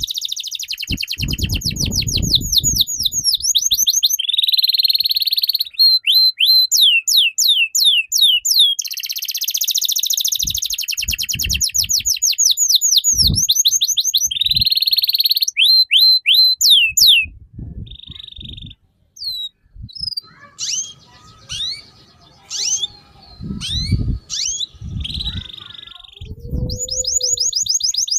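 Songbird singing a fast, loud song of rapidly repeated high down-slurred notes broken by buzzy trills. About two thirds of the way through it drops to scattered chirps, with a few low thumps, before the fast notes return at the end.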